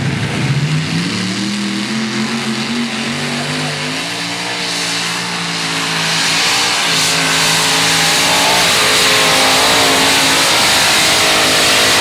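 Light modified pulling tractor's engine running hard on a pull. Its pitch climbs over the first few seconds, then holds. It climbs again and grows louder from about halfway through.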